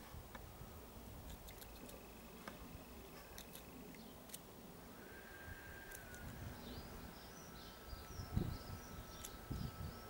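Faint outdoor ambience with a bird twittering from about six and a half to nine and a half seconds in, over a thin steady whistle-like tone. Scattered soft clicks run throughout, and two low thumps come near the end.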